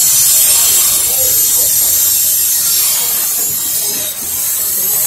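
Coal hopper cars of a passing freight train rolling by: a steady, loud hiss of steel wheels running on the rails.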